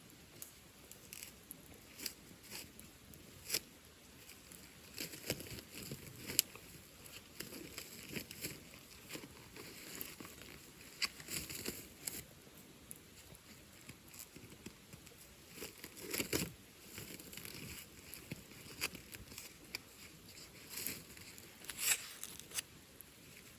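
Wood bonfire crackling: irregular snaps and pops at uneven intervals, a few of them sharper and louder, over a soft low rush of the flames.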